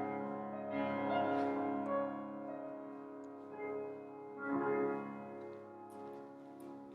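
Piano playing slow, sustained chords, with new chords struck about a second in and again near the middle, each ringing and slowly fading.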